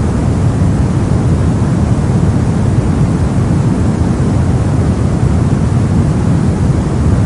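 Soft white-noise track: a steady, unchanging rushing hiss, strongest in the bass and fading off toward the treble.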